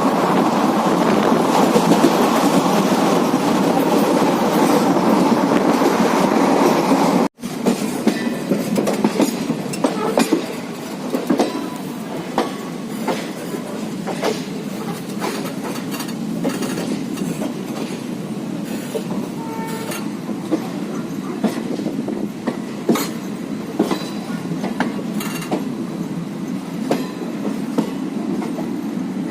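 Passenger train running, heard from aboard one of its coaches: a loud steady rush of wheels on rail that cuts off abruptly about seven seconds in. It then resumes quieter, with frequent clicks and knocks of the wheels on the track.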